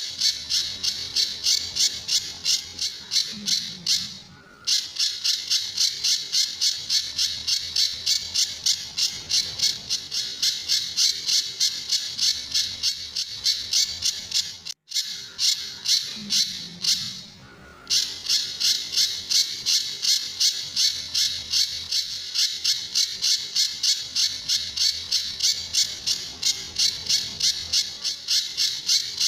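Pijantur songbird calling in its rapid 'tembakan' (shooting) style: sharp high notes repeated evenly and fast, about three a second, with a brief break about four seconds in and another just past the middle.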